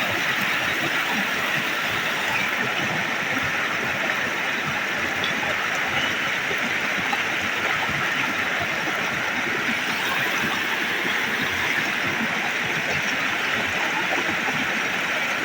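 Small waterfall rushing steadily: falling water as an even hiss with no breaks.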